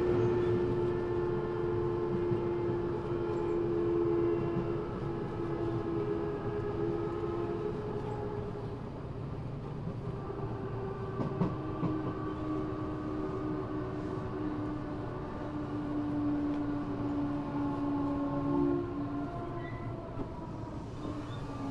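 Running sound inside an Eidan 6000-series subway car fitted with a high-pitched Mitsubishi three-level VVVF inverter taken from a 7000-series car: a steady multi-tone whine over the rumble of wheels on rail. The tone drops slightly about halfway, sinks slowly and fades a couple of seconds before the end, with a single sharp knock about halfway.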